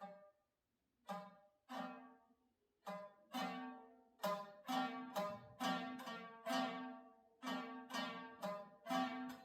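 A plucked string instrument sounding single notes one after another, each ringing and fading, about fifteen plucks, coming faster after the first few seconds, as the strings are checked during tuning.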